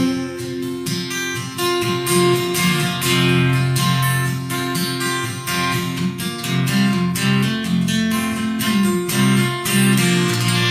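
Acoustic guitar playing the instrumental ending of a country song: strummed chords and picked notes at a steady pace, finishing on a final chord left ringing near the end.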